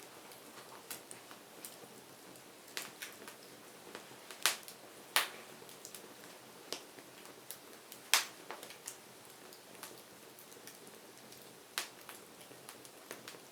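Wood fire crackling: a soft steady hiss broken by irregular sharp pops and snaps, with a few louder cracks in the middle.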